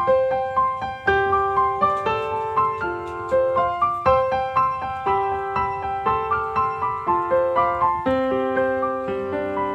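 Background piano music: a steady stream of single notes and chords, each struck and fading, in a gentle flowing pattern.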